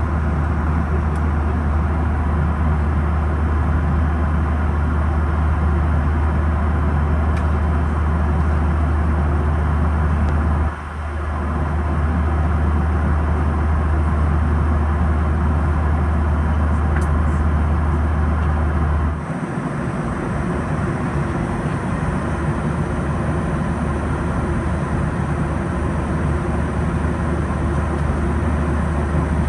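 Steady cabin roar of a Boeing 737-800 in flight, airflow and engine noise heard from a forward window seat. A deep hum underneath dips briefly about 11 seconds in and drops away from about 19 seconds, leaving the roar a little quieter.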